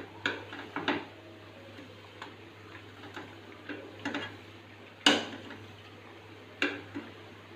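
A spoon knocking and clinking against the syrup vessel while the fried mathi are turned in the sugar syrup: a few separate sharp knocks, the loudest about five seconds in, over a low steady hum.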